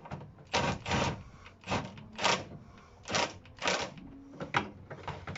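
Irregular series of about nine sharp metal knocks and clatters, roughly one every half second, as a rear suspension control arm is worked into its mounts by hand.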